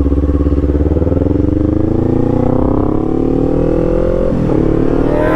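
Motorcycle engine accelerating, its pitch climbing steadily through one gear, then dropping at an upshift about four seconds in and climbing again.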